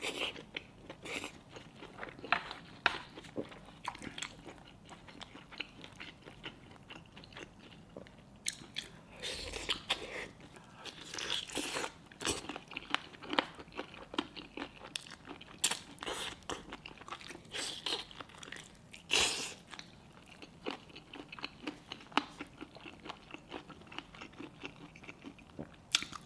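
Close-miked chewing and biting of tiger skin chicken feet, with irregular crunches and clicks as the small bones are worked in the mouth.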